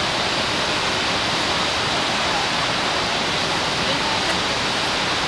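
Gullfoss, a huge waterfall, rushing: a loud, steady roar of falling water with no breaks.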